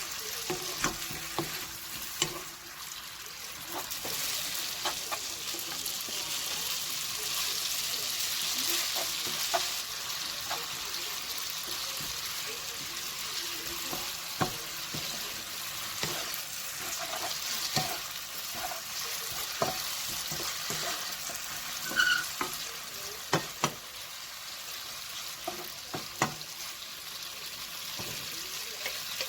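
Food sizzling in a frying pan as it is stir-fried, with a steady hiss and scattered sharp clicks of a utensil against the pan.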